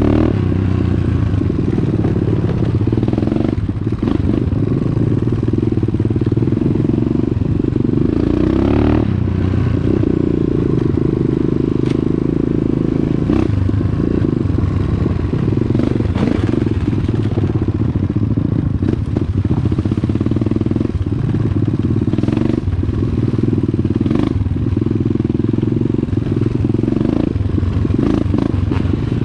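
Dirt bike engine running steadily while riding a trail, with frequent short knocks and clatter throughout.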